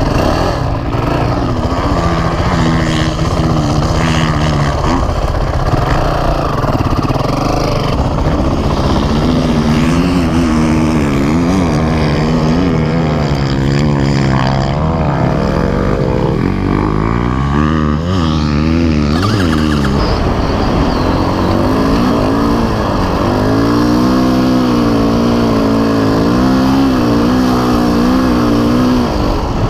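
Dirt bike engines running hard, the pitch climbing and dropping again and again as they rev and change gear.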